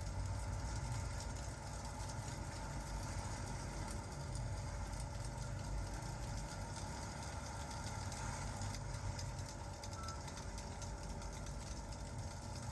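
Ambient crackling fireplace and rain: a steady low rumble and an even hiss, with many small pops scattered through it.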